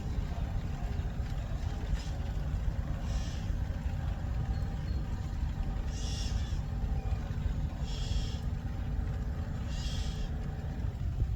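An adult bird gives harsh squawks, four of them spaced about two to three seconds apart: alarm calls at a black snake raiding its nest. A steady low rumble runs underneath.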